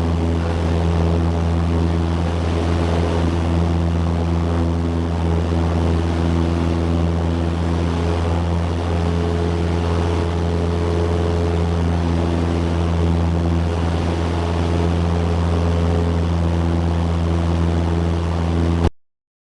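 Light airplane's piston engine and propeller running steadily, a constant low drone with no change in pitch. It stops abruptly near the end.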